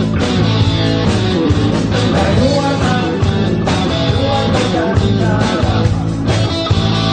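Rock band music with electric guitar, played loud and steady.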